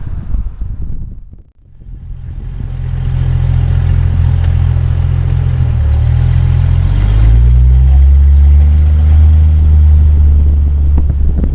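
Jeep Cherokee XJ engine droning loudly as the vehicle drives off. Its low note steps up in pitch about six to seven seconds in as it accelerates. It begins after a brief rustling noise and a short lull.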